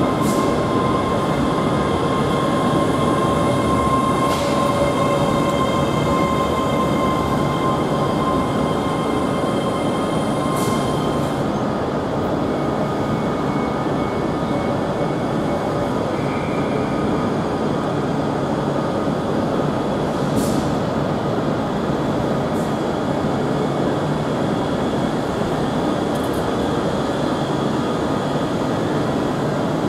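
ScotRail Class 385 electric multiple unit running slowly past on curved track: a steady rumble of wheels on rail, with a few sharp clicks, and a high steady wheel squeal that fades out about a third of the way through.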